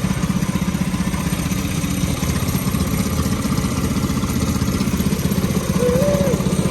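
Minibike's 196cc single-cylinder four-stroke engine, governor removed and breathing through a short header pipe, idling steadily with a rapid, even pulse.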